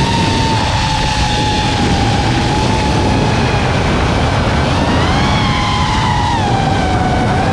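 FPV racing quadcopter's motors and propellers whining over rushing air. The pitch holds steady, climbs briefly about five seconds in, then falls to a lower note as the throttle changes.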